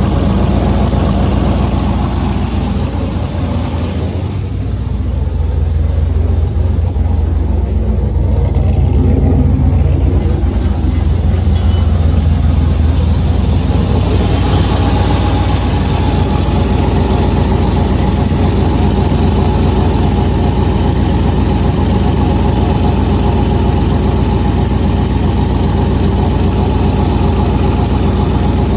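2006 Pontiac Grand Prix GXP's 5.3-litre V8 idling steadily on E85 while still warming up after a cold start. The level sags briefly about four seconds in, then the idle settles and carries on.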